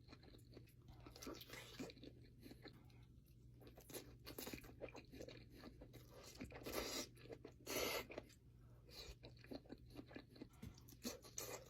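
Close-miked eating of crisp food: irregular crunches and chewing, with the loudest bites about seven and eight seconds in. A steady low hum lies underneath.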